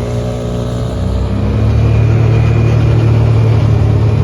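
Small gas engine of an engine-swapped Power Wheels ride-on running under throttle. It revs up and gets louder about a second in, then holds a steady drone.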